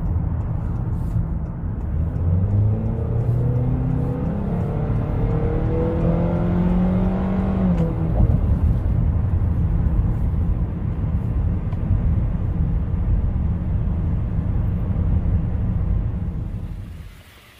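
Honda minivan engine running, heard at the open engine bay. Its pitch rises from about two seconds in and drops back near eight seconds. The sound falls away abruptly near the end.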